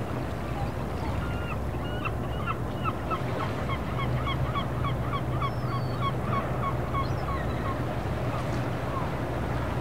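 A bird calling a long run of short, honking notes, about four a second, that starts about a second in and trails off near the end. Underneath is the steady low hum of a boat engine and the wash of harbour water.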